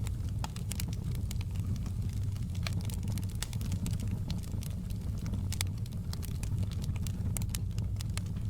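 Wood fire crackling, with frequent irregular sharp pops and ticks over a steady low rumble.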